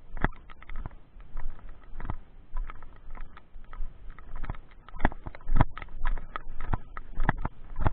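Raindrops striking close to the microphone as irregular sharp taps of varying loudness, over a low wind rumble.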